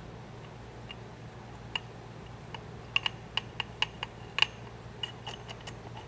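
Light metallic clicks and taps from small carburetor parts being handled and fitted together, irregular, a few at first and then a quick cluster in the middle.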